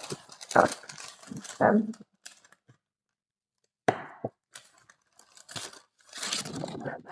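Parchment paper rustling and crinkling as a raw chicken breast is peeled off it with a fork, in short spells, with a sharp knock about four seconds in.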